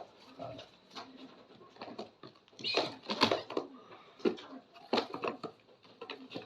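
Homing pigeons making sounds, in several short, irregular bursts, the loudest about three seconds in and again about five seconds in.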